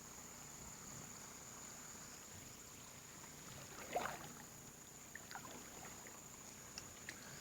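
A canoe paddle dipping into still swamp water, with one small splash and drip about four seconds in and a few faint ticks after it. A steady faint high-pitched hum runs underneath.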